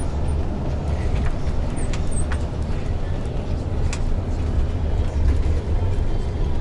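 Bus driving, heard from inside the passenger cabin: a steady low engine and road rumble, with a few faint clicks or rattles.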